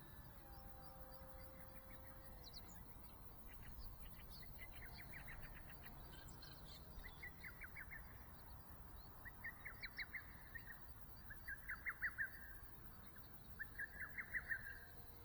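A bird singing repeated short, rapid trills, each phrase about a second long and about two seconds apart, growing louder from about seven seconds in over a faint outdoor background.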